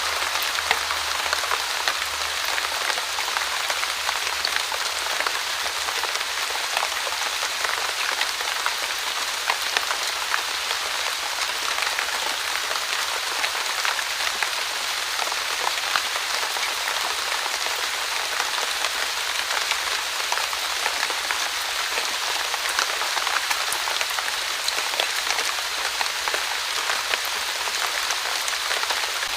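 Light, steady rain falling on a surface, a continuous hiss dotted with many small drop ticks.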